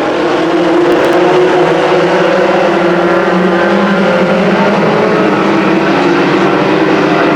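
Race trucks' engines running at speed on a short oval, several engines heard at once as a loud, steady drone whose pitches waver slightly.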